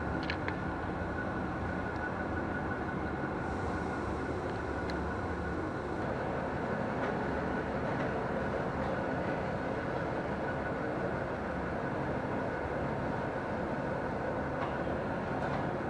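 Passenger coaches of a diesel train rolling slowly past a station platform: a steady rumble of wheels and running gear, with a faint constant whine above it and a few light clicks near the start.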